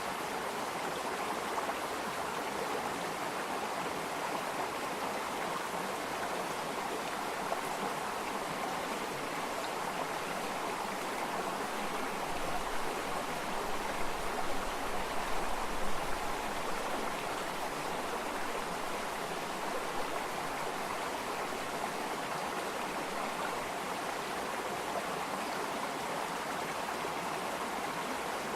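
Running water of a stream flowing steadily, a little louder with a low rumble for a few seconds around the middle.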